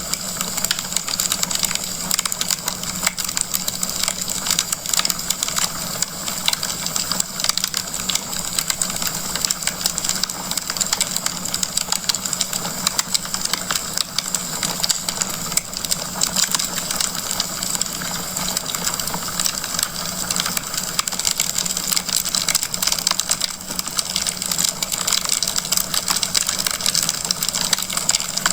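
Wood fire crackling in a fireplace: a dense, steady run of small crackles and pops from burning logs over a soft hiss and a low steady hum.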